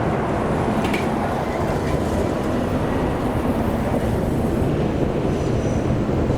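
A train running past steadily, a dense low noise with a faint steady hum and a few light clicks from the wheels.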